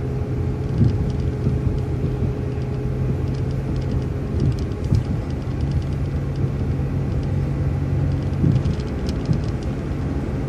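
City transit bus engine and drivetrain running steadily while the bus drives along, heard from inside the cabin, with a constant whine over the low hum and light rattles.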